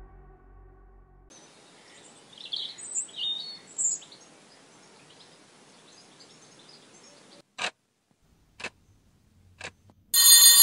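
Music fading out, then faint outdoor ambience with birds chirping. Three short sharp knocks follow about a second apart, and near the end a loud electric bell starts ringing.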